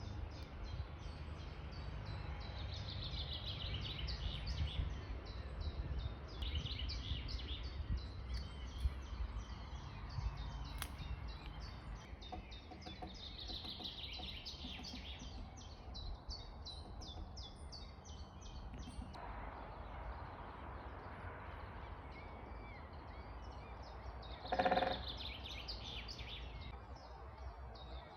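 Bird calling in long, rapid trills of high notes, two extended runs, over a steady low background rumble. A single short, louder, lower call breaks in near the end.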